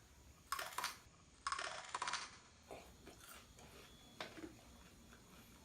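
Biting into a raw habanero chile pepper: two crisp crunching bursts in the first couple of seconds, followed by a few fainter short mouth sounds.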